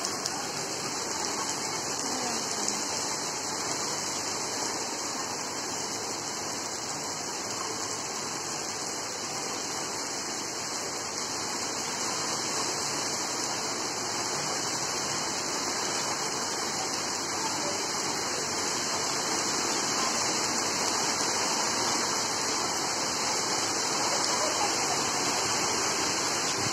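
Heavy tropical rain pouring down in a steady hiss on pavement and trees, growing a little louder over the second half.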